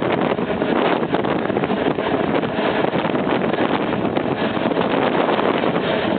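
Manx Electric Railway electric tramcar running along the line: a steady noise of wheels and running gear on the rails with light rattles, and wind on the microphone.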